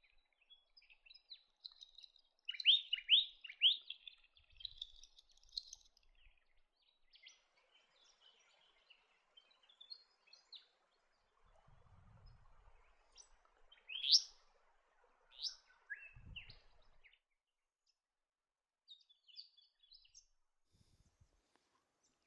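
Restless flycatcher calling: a quick run of sharp, downslurred whistled notes about two to four seconds in, then scattered softer notes and a second pair of loud sweeping notes past the middle.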